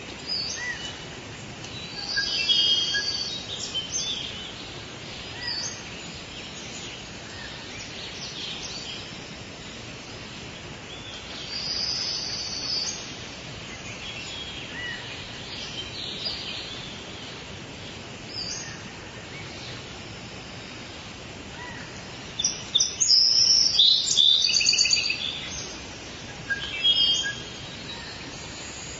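Several birds chirping and singing over a steady forest background hiss, with short high calls coming in bursts, the busiest and loudest a little before three-quarters of the way through.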